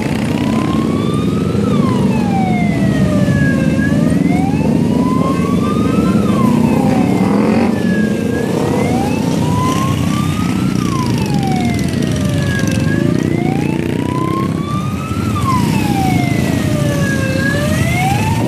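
A siren wails in slow rises and falls, about one cycle every four and a half seconds, over a steady low rumble of motorcycle engines.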